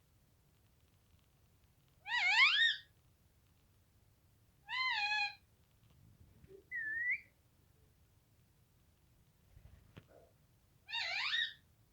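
Pet parrot calling four times, a couple of seconds apart: short rising calls at the start and end, a slightly falling one, and a brief whistled note in between.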